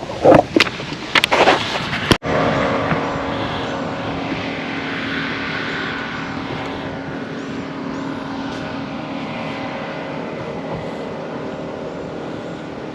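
Wind buffeting the microphone for about two seconds. After a sudden cut comes a steady engine drone that slowly fades.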